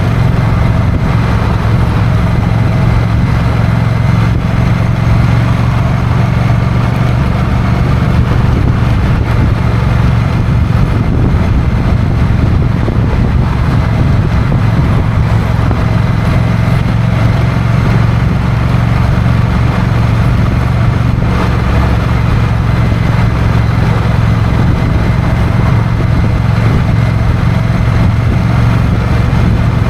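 Honda CMX1100 Rebel's parallel-twin engine running steadily under way, at an even speed with no revving, mixed with road and wind noise.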